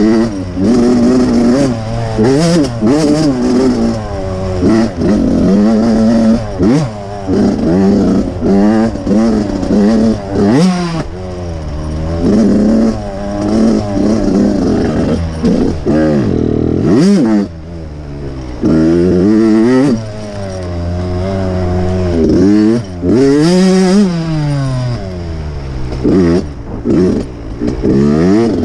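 Dirt bike engine revving hard and backing off over and over as it is ridden around a track. The pitch climbs and drops every second or two, with brief drops in loudness between surges.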